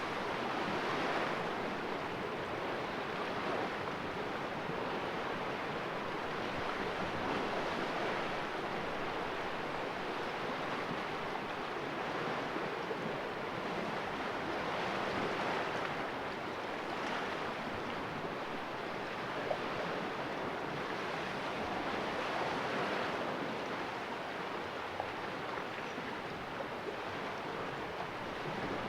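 Sea waves washing against a rocky cove shore, a steady rushing that swells and eases every few seconds.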